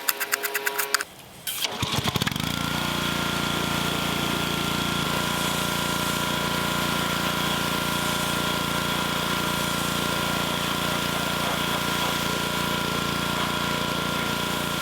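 Pressure washer running steadily with an even machine drone and water spray hiss, starting about two seconds in after a brief spell of clicking and rattling.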